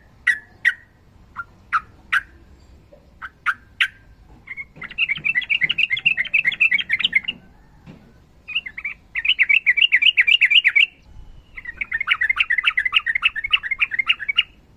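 Yellow-vented bulbul (trucukan) calling: a few single sharp notes, then three long runs of fast repeated notes, the long rattling 'ropel' phrases of its song.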